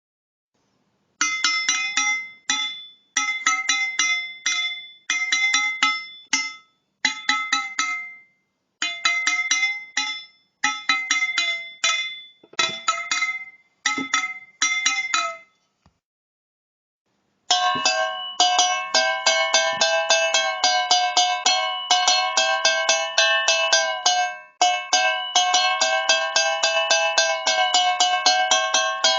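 Tin cans struck in quick rapid strokes, each stroke ringing with a set of bright metallic tones, and one lower tone sliding up and down in pitch. The strikes come in short bursts for the first half, stop for about two seconds, then run on in a continuous stream.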